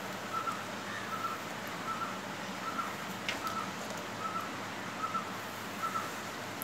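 A bird repeating one short call about every second, over faint background hiss, with a single click about halfway through.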